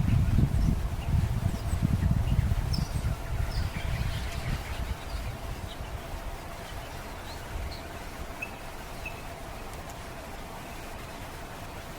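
Outdoor ambience: short, faint bird chirps scattered through, over a faint steady hum. A low rumble like wind on the microphone runs through the first few seconds and dies away about halfway in.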